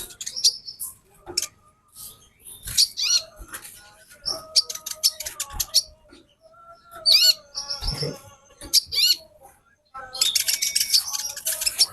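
Female sunbird (kolibri konin) singing: bursts of rapid, high twittering chirps with quick pitch sweeps, broken by short pauses.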